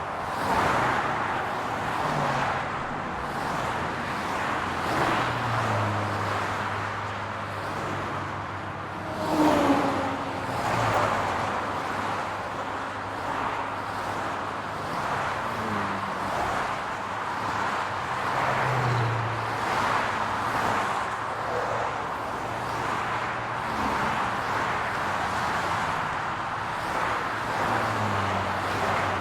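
Road traffic: cars driving by with a steady hum of tyres and engines. One vehicle passes louder about nine seconds in, its pitch dropping as it goes by.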